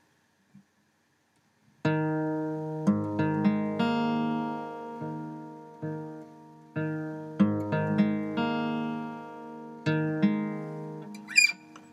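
Background music: acoustic guitar chords strummed and left to ring, starting about two seconds in after near silence.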